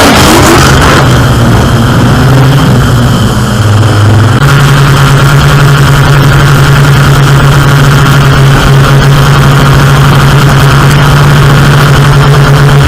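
Airboat engine and propeller running loud and steady. Its pitch glides in the first second, then steps up about four seconds in and holds.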